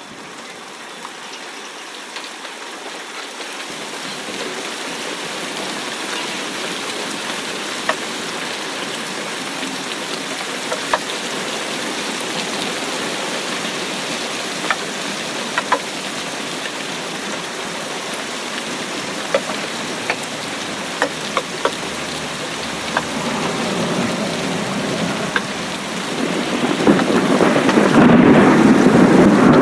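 Steady rain hiss that slowly grows louder, dotted with sharp individual raindrop hits. Near the end a low rumble of thunder swells in and becomes the loudest sound.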